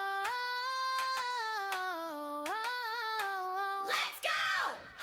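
A high female voice singing a wordless melody unaccompanied, in long smoothly gliding notes. About four seconds in the voice stops and a brief noisy swoosh with a falling sweep follows.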